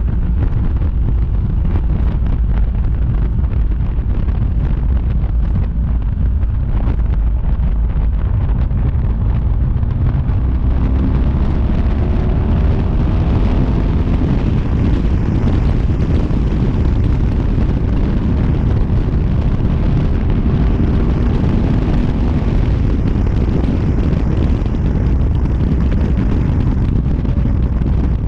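Wind buffeting a helmet- or bike-mounted action camera's microphone while riding a motorcycle, a loud steady low rumble. Underneath it the motorcycle engine's note can be heard faintly, rising in pitch about halfway through as the bike speeds up.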